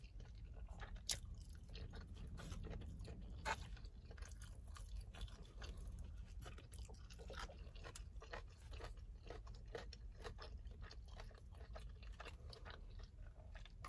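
Faint close-up chewing of takeout honey chicken and lo mein noodles, full of small wet mouth clicks and smacking, over a low steady hum.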